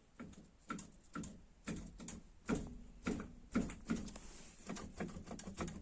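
A run of irregular light clicks and knocks, a few a second.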